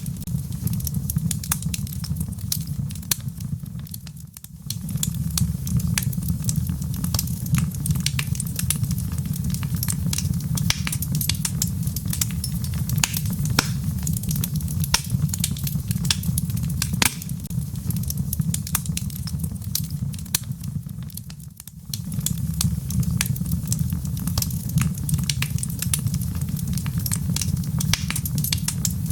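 Wood fire crackling in a fireplace, with frequent sharp pops and snaps over a steady low rumble. The rumble fades out briefly twice, about four seconds in and again near twenty-two seconds.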